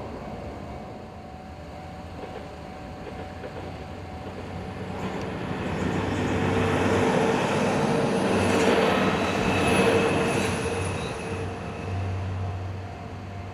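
Diesel train on the JR Takayama Main Line passing over a level crossing. It grows louder, is loudest about eight to ten seconds in, then fades away.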